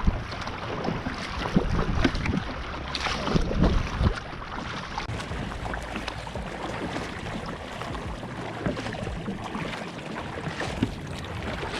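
Water sloshing against a fishing kayak's hull, with wind on the microphone and a few knocks in the first four seconds.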